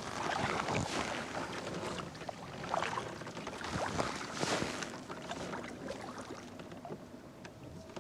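Water swishing and splashing around a kayak in irregular strokes, with handling rustles, louder in the first half and dying down toward the end.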